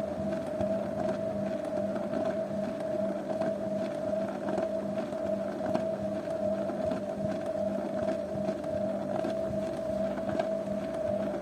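Zanussi washing machine running: a steady motor whine over a lower hum, with faint ticking.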